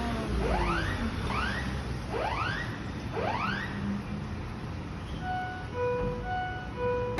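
A whooping warning alarm: about five quick rising sweeps, a little under one a second, over a low rumble. The whoops stop about four seconds in, and a few held musical notes follow.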